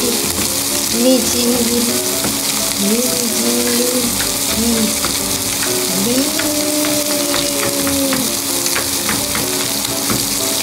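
Sardine fillets sizzling steadily as they fry in a nonstick pan, with a knife tapping quickly on a plastic cutting board as parsley is minced, the chopping thicker in the second half. A quiet melody of gliding and held notes runs underneath.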